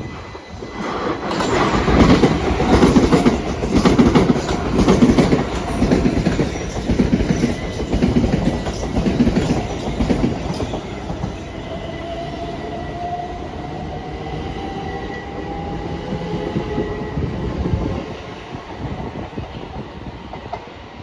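A train running past on the track, its wheels clattering over rail joints about once a second, loudest early and easing off. Later a faint whine slowly rises in pitch before the sound drops away suddenly near the end.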